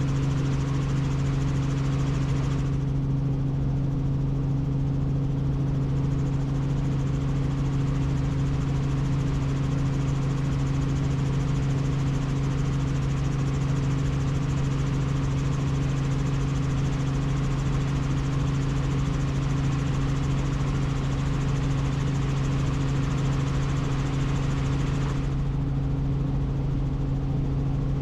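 Helicopter in flight: a steady, unbroken engine and rotor drone with a strong low hum and its overtone.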